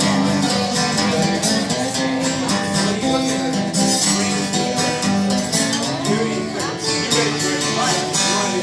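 Live acoustic guitar playing an instrumental break of a country song, with plucked melody notes over a steady strummed rhythm.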